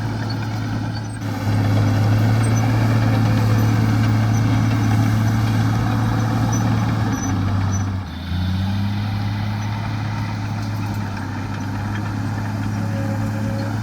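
Heavy diesel engine of earthmoving machinery running steadily. It gets louder about a second in, drops away briefly around the middle, then picks up again at a slightly different pitch.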